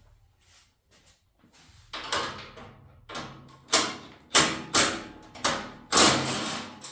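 Sheet-metal hood of an Allis-Chalmers B210 garden tractor being taken off and handled: a series of irregular metal clunks and rattles, starting about two seconds in, the longest near the end.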